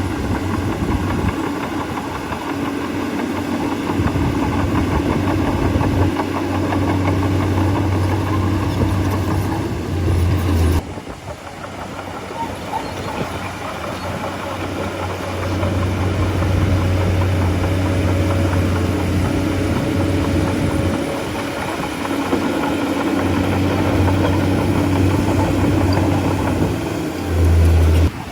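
Bulldozer's heavy diesel engine running under shifting load, its low note swelling and easing every few seconds. The sound changes abruptly about eleven seconds in, and there is a brief louder surge near the end.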